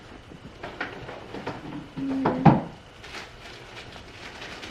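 Small knocks and clicks of objects being handled and set down, with a louder clatter about two seconds in.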